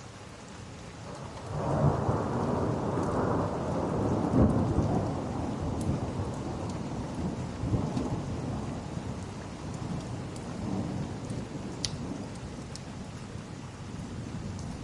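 Steady rain with a roll of thunder that starts about a second and a half in, is loudest for the next few seconds, then rumbles away slowly under the rain. A few faint sharp clicks come and go.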